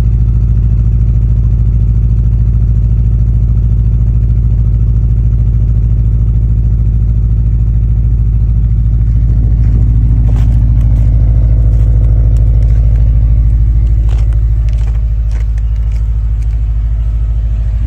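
Subaru STI's turbocharged flat-four boxer engine running at cold-start idle, a steady low engine note. An extra weird sound swells over it from about halfway through and eases off near the end, with scattered sharp clicks in the later part.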